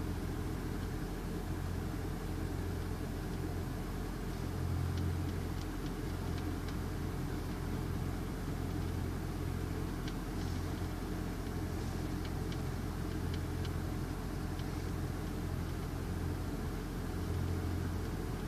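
Car engine idling with a steady low hum and faint light ticks scattered through it.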